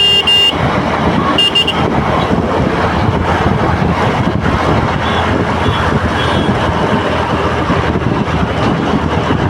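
Jammed road traffic: a steady rush of engines and road noise, with a vehicle horn honking at the start and again briefly about a second and a half in, and fainter honks around five to six seconds in.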